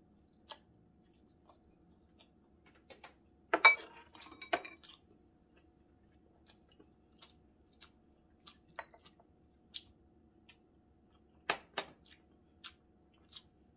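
Close-up mouth sounds of chewing cold noodles, with scattered small clicks. Tableware clatters loudly about three and a half seconds in and again a second later, and two sharp knocks come near the end.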